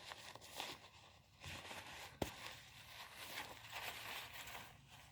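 Nylon tent bags rustling and scraping as they are handled and pulled from a carry case, with a sharp click about two seconds in.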